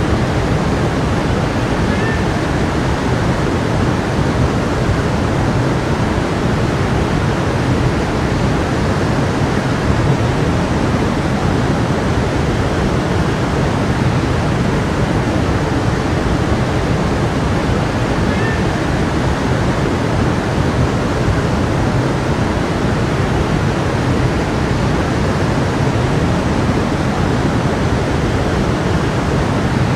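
Stream water rushing and splashing over rocks, a steady, unbroken wash of sound.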